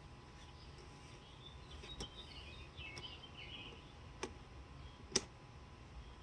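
Four sharp, isolated metal clicks a second or so apart from hand tools tightening the truck alternator's mounting bolts, over faint bird chirps.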